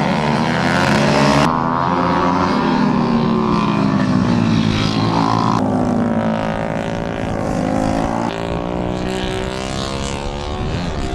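Several racing minibike engines revving hard, their pitch rising and falling. The sound changes abruptly twice, about a second and a half in and again a little past halfway, as the footage cuts.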